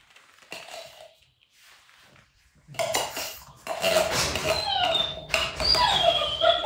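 Dishes and a spoon clattering and scraping for about the last four seconds as dog food is handled, with a dog whining in high, wavering tones over it.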